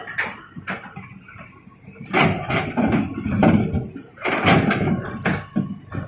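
Stones and a plastic toy excavator clattering and scraping: irregular knocks and rattles, with longer scraping stretches about two seconds and four seconds in.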